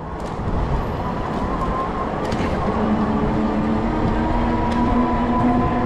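E-bike riding across a road, with wind rumble on the handlebar-level microphone and tyre noise, and a steady droning hum that grows stronger about three seconds in.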